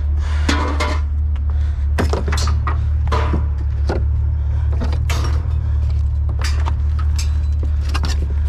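Scrap being handled: repeated knocks, clanks and scrapes over the steady low rumble of an engine running.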